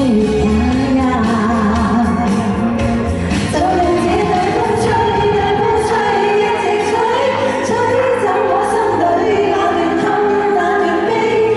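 A pop song sung over full instrumental accompaniment, the vocal line gliding and held in long notes.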